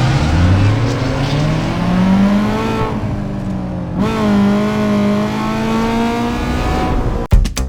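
Car engine accelerating, its pitch climbing over the first few seconds. About four seconds in it changes suddenly to a steady high rev. Music with a beat cuts in just before the end.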